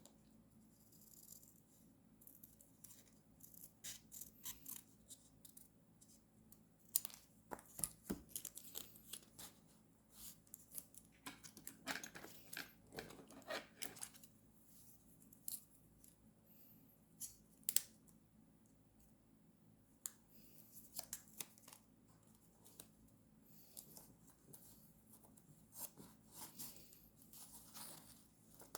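Quiet paper-crafting sounds: paper and sticker sheets being handled and rustled, with scattered short, sharp snips and clicks coming irregularly.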